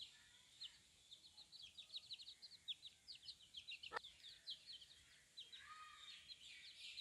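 A brood of chicken chicks peeping: many quick, high, downward chirps overlapping, faint, over a soft hiss of rain. One sharp click about four seconds in.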